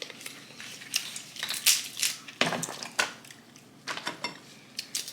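Snow crab leg shells being cracked and snapped apart by hand: a run of sharp, irregular cracks, several of them loud.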